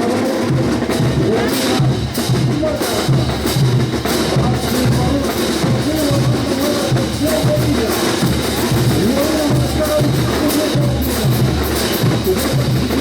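Brass band playing a ch'uta carnival tune: a wind melody over a steady, evenly repeating bass-drum beat with sharp percussion strokes.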